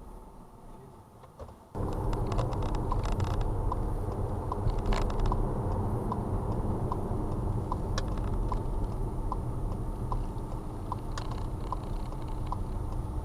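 Car engine running steadily, starting suddenly a couple of seconds in, with a light regular ticking about twice a second over it.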